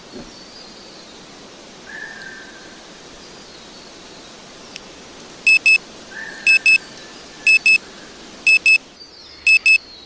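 Steady forest ambience with a hiss-like background and a couple of short bird calls. About halfway in, a digital alarm starts beeping in quick double beeps, one pair each second, much louder than the ambience: the countdown timer has run out.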